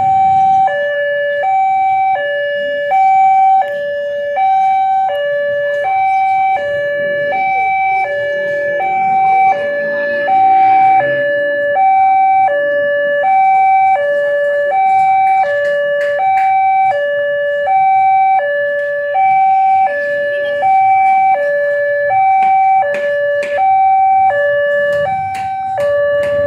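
Railway level-crossing warning alarm sounding a steady two-tone hi-lo signal, the two notes alternating about every three-quarters of a second. Sharp clicks and knocks come more often in the second half.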